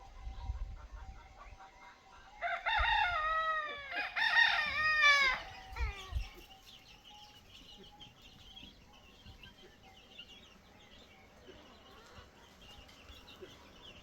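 A rooster crowing, starting about two and a half seconds in and lasting about three seconds, the call arching and dropping in pitch at its end. Faint high chirps follow.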